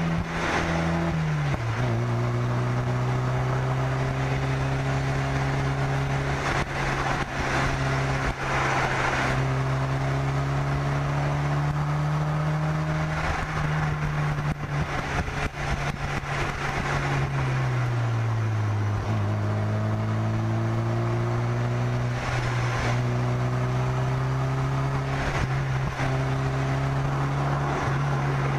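Car engine running under load while driving, its pitch rising slowly and dropping twice as the revs fall, with steady wind rushing over a bonnet-mounted microphone.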